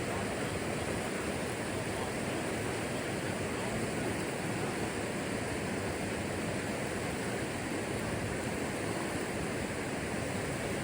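Steady rush of river rapids, an even roar of water with no change in level.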